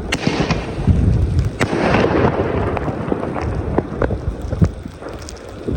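Consumer fireworks going off: a dense run of sharp bangs and crackling over low booming, easing off towards the end.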